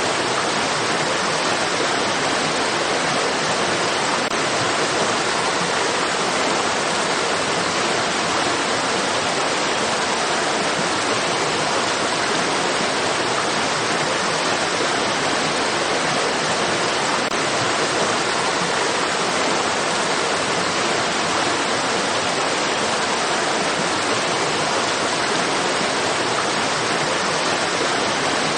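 Running water of a stream rushing steadily, an even hiss with no changes.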